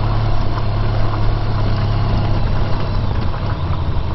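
Honda VFR1200X Crosstourer's V4 engine running steadily under way, heard from the bike.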